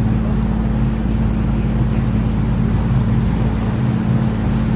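A canal tour boat's engine running steadily, giving a constant low hum.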